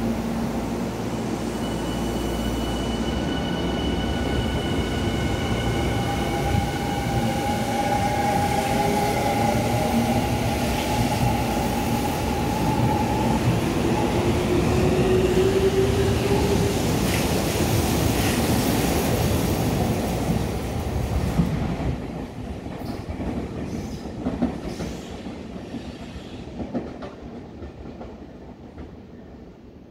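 Tokyu Toyoko Line electric commuter train running through close by: wheels rumbling on the rails, with motor whines that glide in pitch and steady high squeals in the first half. The noise builds, then falls away about three-quarters through, leaving scattered clacks as it moves off.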